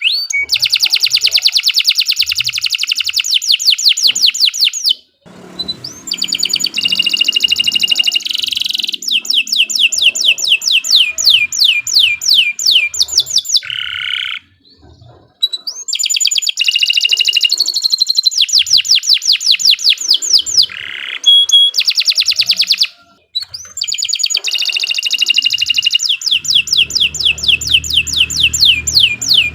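Domestic canary singing long, fast trills of rapidly repeated high notes, phrase after phrase. Brief pauses come about 5, 15 and 23 seconds in.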